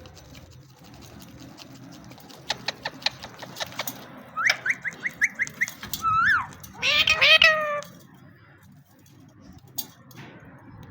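Indian ringneck parrot vocalizing: a quick run of sharp clicks, then about seven short even chirps, a single rising-and-falling whistle, and a longer call that falls in pitch.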